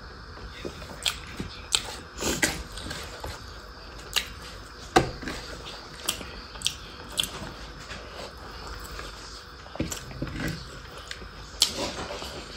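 Close-up eating sounds of pork and rice being chewed: wet chewing and mouth smacks with scattered sharp clicks.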